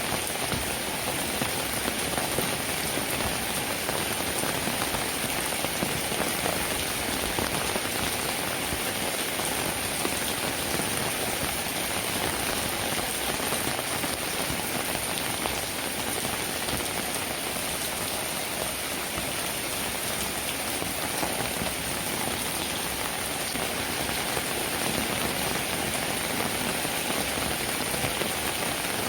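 Steady rainfall, drops falling on a cabin roof, unchanging throughout.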